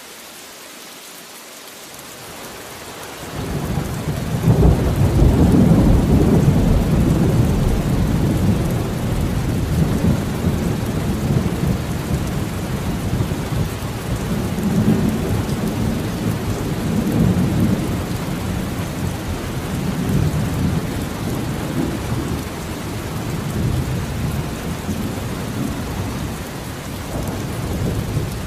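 Steady rain with a long rolling thunder rumble that swells in about three seconds in, is loudest a few seconds later, and rolls on in waves, slowly easing.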